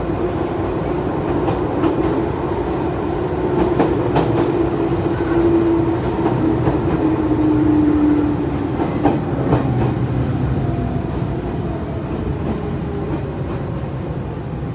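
Cabin noise of an Izuhakone Railway 5000-series electric train running: a steady rumble with scattered clicks from wheels over rail joints and a motor hum that sinks in pitch and fades about eight seconds in, as the train slows for a station stop.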